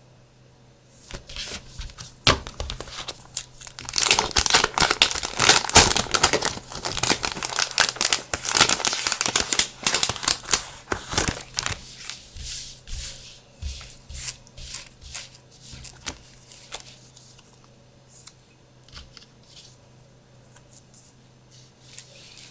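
Packaging crinkling and tearing as it is opened by hand: a dense run of crackles through the middle, thinning to a few scattered rustles and light taps near the end.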